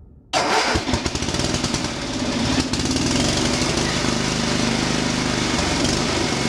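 A heavy machine's engine running steadily and loud, with a rough clattering noise over its hum; it cuts in abruptly just after the start.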